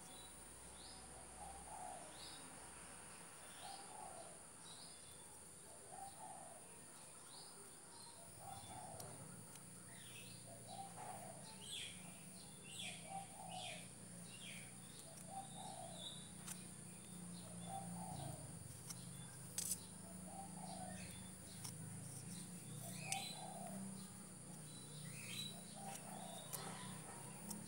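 Faint birdsong: one bird repeats a mid-pitched call about every one and a half seconds while others give short high chirps, over a steady high-pitched hiss. A low hum comes in about eight seconds in.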